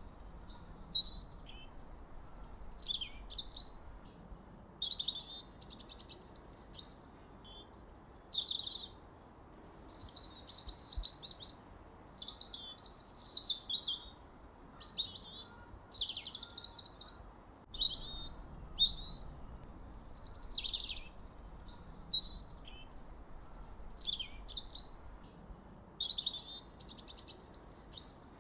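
Songbird singing: a steady run of high, quick chirps, sweeping notes and trills, one phrase after another with short pauses, over a faint low hiss.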